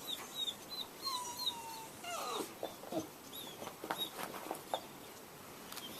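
A dog whimpering and whining: a run of short high squeaks about three a second, then longer falling whines, with a few soft clicks.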